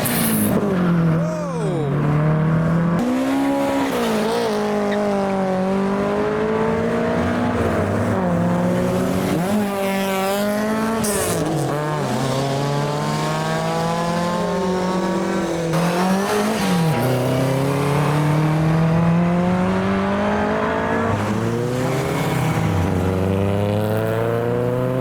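Several classic Ford cars' engines revving and pulling away one after another, their pitch repeatedly climbing through the gears and dropping off, often with two engines heard at once.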